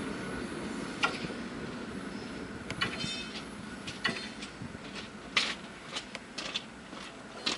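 Train car heard from on board: a fading rolling rumble with irregular sharp metallic clanks and knocks, as the car comes nearly to rest.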